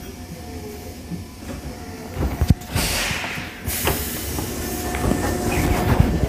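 Keisei 3500 series commuter train at a station: a few heavy thumps about two seconds in, then compressed-air hissing for about a second, ending in a short loud blast of air. A low rumble with scattered knocks follows and grows louder.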